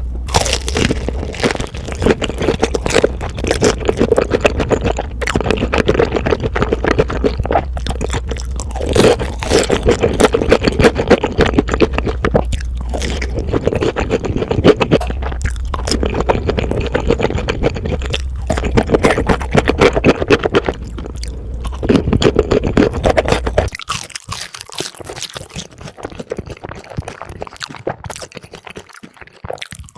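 Close-miked crunching and chewing of sweet-glazed Korean fried chicken, sped up to double speed: dense, irregular crunchy bites throughout. About 24 s in, a low background hum stops and the crunching goes on more quietly.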